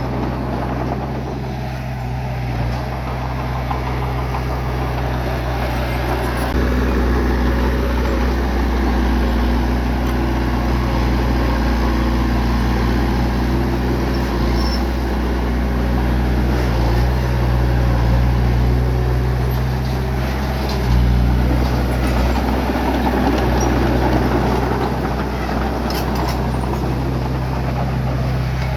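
Bulldozer's diesel engine running steadily as it works, growing louder about six seconds in.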